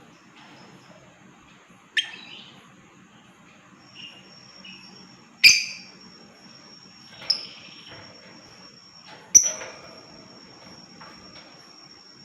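Lovebirds giving short, shrill chirps, four in all about two seconds apart, over a faint steady high-pitched trill.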